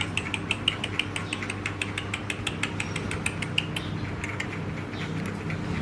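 Rapid, evenly spaced clicking, about seven clicks a second, fading out about three and a half seconds in, over a steady low hum.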